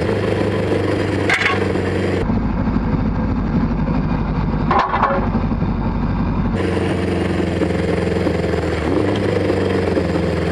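Honda CB500 Four's air-cooled inline-four engine running steadily while the motorcycle cruises, with two brief knocks about a second and a half and five seconds in.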